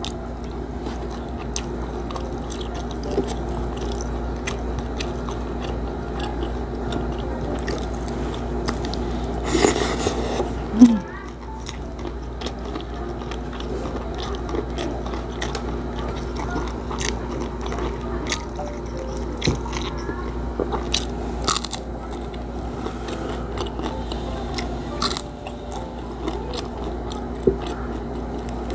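Close-up chewing and crunching of crispy fried boneless milkfish (bangus) eaten with rice, with sharp crunches scattered throughout and the loudest burst about ten seconds in.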